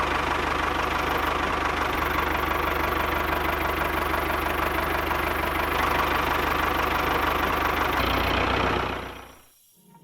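Small mini diesel engine running steadily at idle with a fast, even knocking beat. It fades out about nine seconds in.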